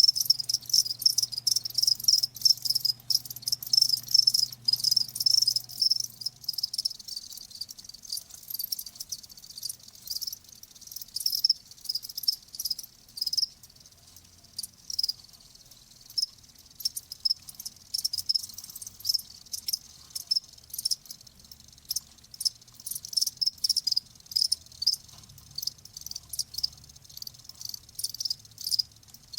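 Crickets chirping: a dense run of quick, high-pitched chirps that keeps rising and falling in loudness.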